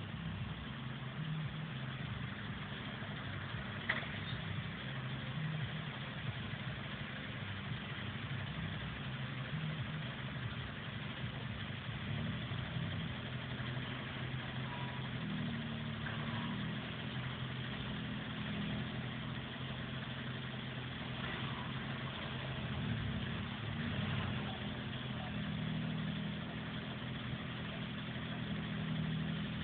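Fiat 500 Abarth's turbocharged 1.4 four-cylinder engine with a Ragazzon exhaust, running at low revs, its note shifting a little up and down with no hard revving. A single short click about four seconds in.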